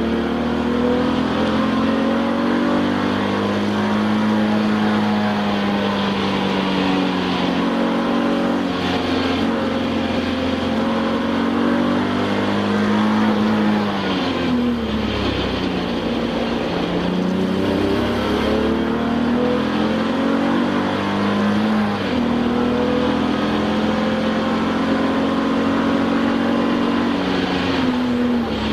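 Touring race car engine heard from inside the car at full throttle, its pitch climbing steadily through the revs. About halfway through the revs fall away as the car slows and downshifts, then climb again under acceleration, with a sudden drop at a gear change a few seconds later.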